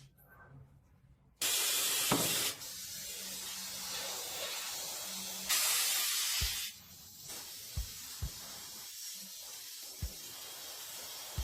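A high-pressure spray hissing steadily, louder in two spells of about a second each, with a few short low knocks in the second half.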